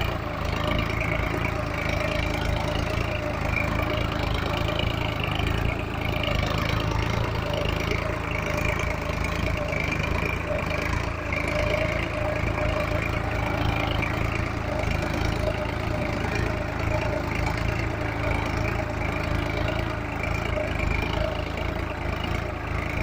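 Solis tractor's diesel engine running steadily at a constant speed.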